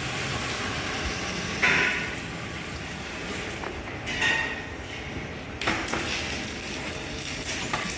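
Water being poured into the mild-steel drum of a pedal-powered washing machine, a steady rushing sound broken three times by ringing metallic clanks.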